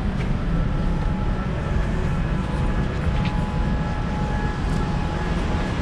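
Steady low rumble with a few faint, steady whining tones above it: the background noise of boarding an airliner, from the air-handling and machinery around the jet bridge and the aircraft door.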